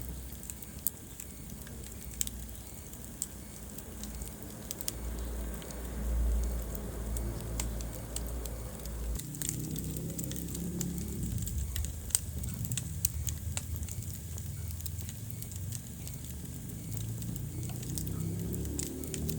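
Wood fire burning in a fireplace: irregular sharp crackles and pops over a steady low rumble of the flames, with one loud pop about twelve seconds in.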